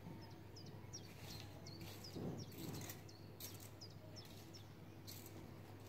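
A small bird chirping over and over in short, quick, high notes, with faint, uneven scratching of a garden rake dragging leaves over the ground.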